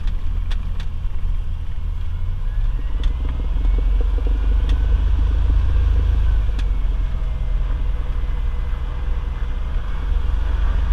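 Cessna 182's piston engine and propeller droning steadily as heard inside the cockpit through a camera microphone, a deep low rumble that swells a little midway, with a few faint clicks of rattle or camera handling.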